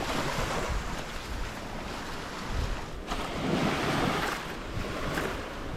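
Small waves washing in at the shore, with wind gusting across the microphone; the wash swells and eases over a few seconds.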